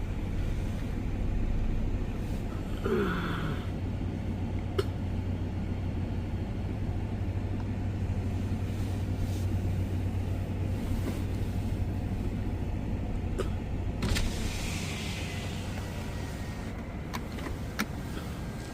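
Large mining haul truck's diesel engine running with a steady low drone. Scattered clicks, a short falling tone about three seconds in and a brief hiss about fourteen seconds in sound over it.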